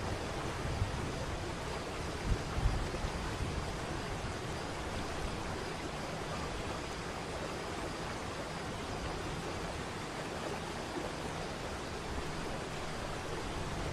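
Waterfall: falling water rushing steadily, with a couple of brief low bumps about two and a half seconds in.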